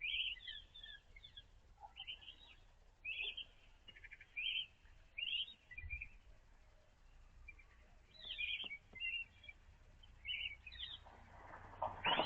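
Small songbird singing short, high, twittering phrases, roughly one a second. A louder, noisier sound starts right at the end.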